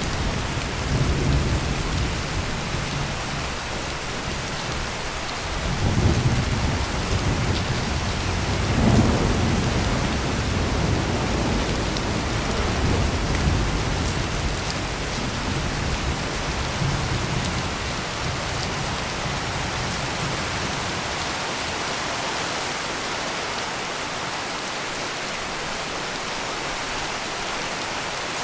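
Heavy rain pouring steadily, with low rolls of thunder swelling about six and nine seconds in and rumbling away past the middle, leaving only the rain.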